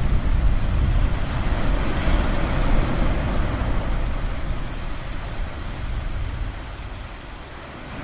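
Ocean surf: a wave washes in with a deep low rumble, swells about two to three seconds in, then recedes and fades.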